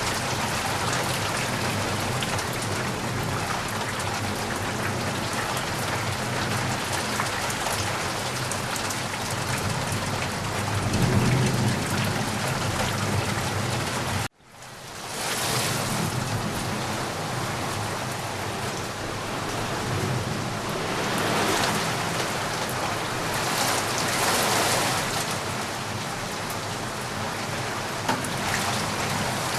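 Steady rain falling, a dense even hiss, with a low rumble of thunder swelling about eleven seconds in. Around the middle the sound cuts out abruptly for an instant and fades back in.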